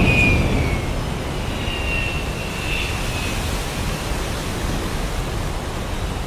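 Steady rush of heavy rain and wind, with the tail of a thunder rumble dying away in the first second. Faint high whistling tones come and go around the middle.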